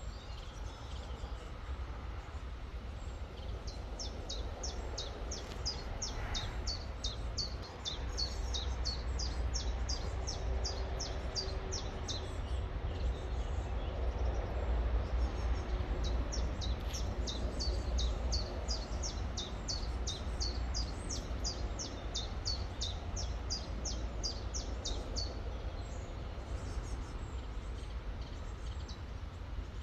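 A songbird repeating a short, high, falling chirp about three times a second in long runs, over the steady rush of a river and a low rumble.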